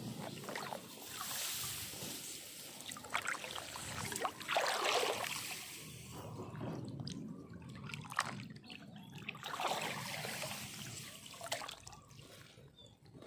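Water sloshing and trickling with irregular small splashes, busier through the first half and lighter with scattered splashes after that.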